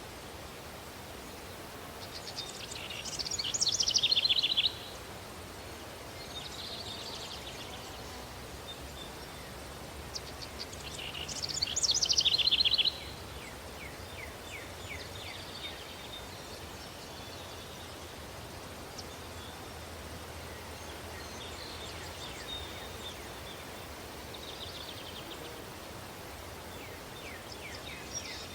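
Daytime countryside ambience: a steady breeze hiss with wild birds calling. Two loud phrases of rapid bird song, each about two seconds long, come early and about eleven seconds in and cut off suddenly; fainter chirps follow now and then.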